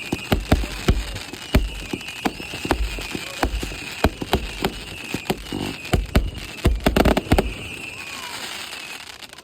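Fireworks going off in a rapid, irregular series of sharp bangs and crackles, over a high wavering hiss. The bangs come thickest about seven seconds in and thin out near the end.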